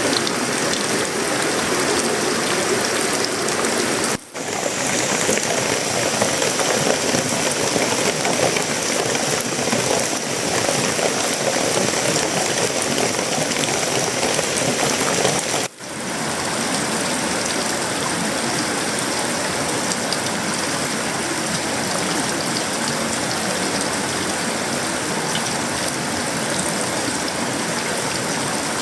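Heavy, steady tropical rain falling on a sheet-metal roof, wood and leaves. The sound cuts out for an instant twice, about 4 and 16 seconds in.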